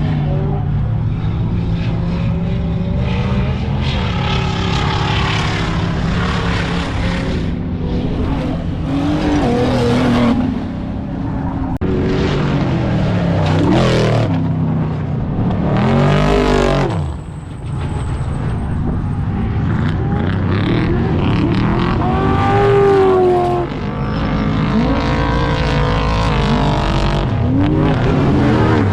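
Car engines revving hard, their pitch repeatedly climbing and falling as the throttle is worked, with a car sweeping past about halfway through.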